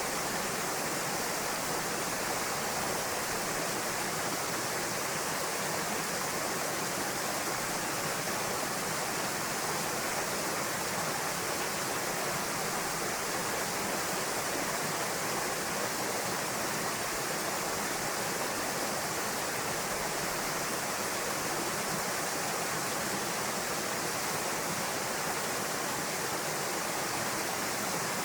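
Waterfall pouring into a pool: steady rushing of falling water, unchanging throughout.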